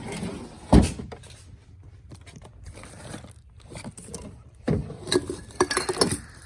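Small trinkets and boxes being handled and rummaged through: a sharp thud a little under a second in, light scraping, then a run of clicks and clatter near the end.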